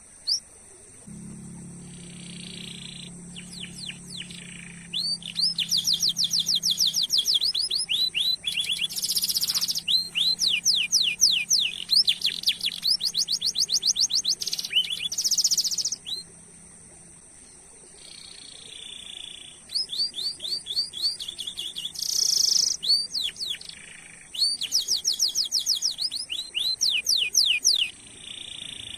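Domestic canary singing long rolling trills: phrases of fast repeated chirping notes, with a pause of a few seconds past the middle.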